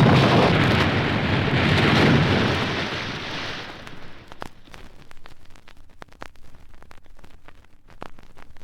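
Recorded sound effect of roaring surf and rushing water, the ship-on-the-rocks scene, fading out over about four seconds. It gives way to quiet record-surface crackle with scattered clicks from the vinyl.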